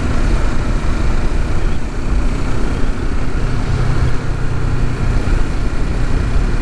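Kawasaki Ninja 650's parallel-twin engine running steadily while the motorcycle is ridden, mixed with rushing wind noise on the microphone.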